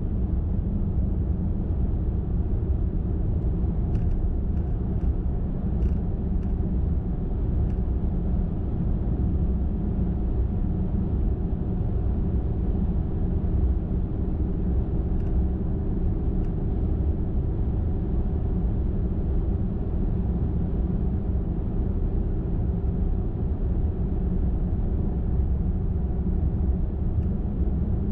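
Car driving at steady highway speed: a constant low rumble of tyres and engine with a faint steady hum over it.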